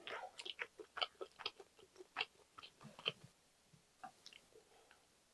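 Close-miked chewing of a mouthful of food, with wet mouth clicks several to the second that thin out after about three seconds.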